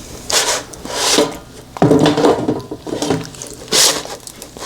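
A person eating a hot bite of food, with several short, sharp breaths through the mouth to cool it and a muffled sound while chewing.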